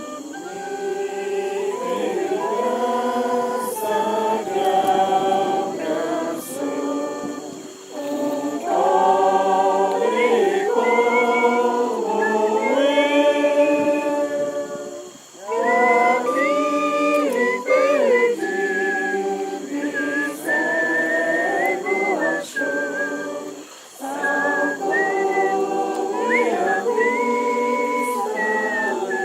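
A group of people singing a hymn together, with three short breaks between sung lines.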